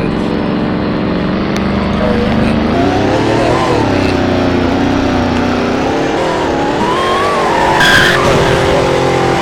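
Car engine accelerating: its pitch climbs and falls twice as it revs and shifts, then holds steady. A brief high-pitched squeal sounds about eight seconds in.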